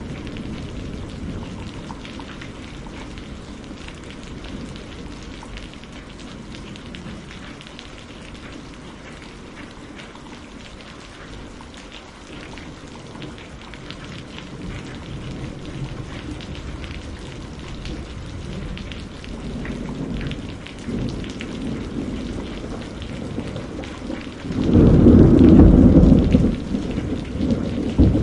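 Steady rain with low rumbling thunder. The thunder swells into a loud rolling peal about 25 seconds in and starts rising again at the very end.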